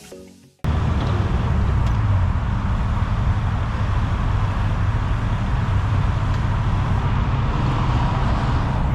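Music fades out, then a sudden cut to a Kubota U55 mini excavator's diesel engine running steadily.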